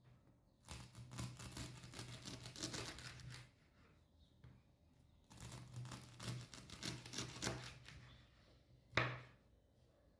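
Rustling and crackling handling noise in two spells of a few seconds each, with one sharp click near the end.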